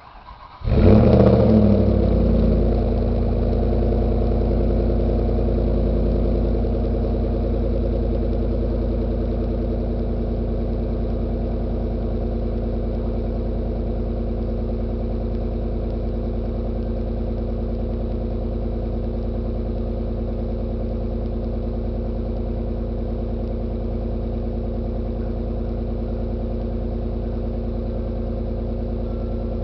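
1999 Ford Taurus SHO's 3.4-litre Yamaha-built V8, run through a stock exhaust with the mufflers removed, cold-started: a brief crank, then it catches under a second in and flares up. It settles into a steady fast cold idle that slowly eases down.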